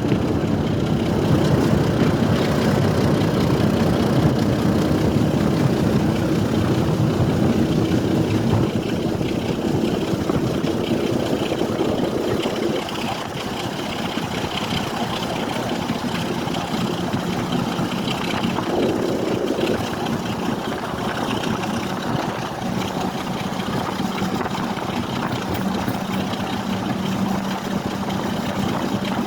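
A train running: a steady engine drone with a held hum that steps down to a lower pitch partway through.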